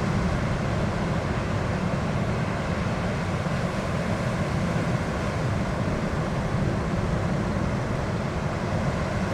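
Ocean surf and wind buffeting the microphone: a steady rumbling wash with no distinct events.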